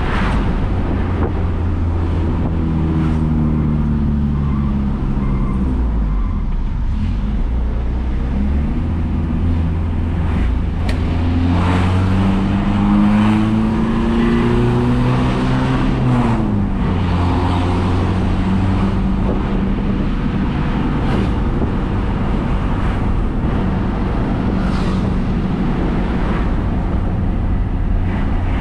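Mitsubishi L300 pickup's engine running through an aftermarket double-spiral-wound muffler while driving, with a bassy exhaust note. The engine pitch rises under acceleration and drops back at gear changes, twice in a row about a third and about halfway through.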